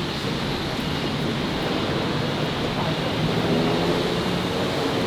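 City street ambience: a steady rush of traffic with the voices of people walking past.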